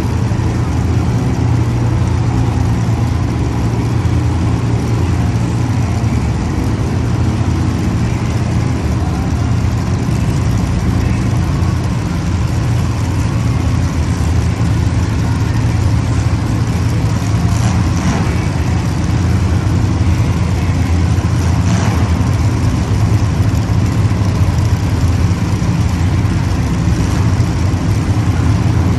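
Several race engines running steadily on the track, a continuous loud drone.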